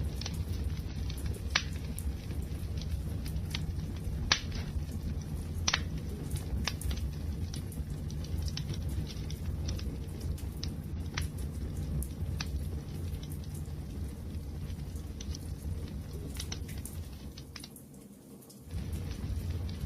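Wood fire crackling: a steady low rumble of burning with irregular sharp pops and snaps. The sound dips briefly near the end, then picks up again.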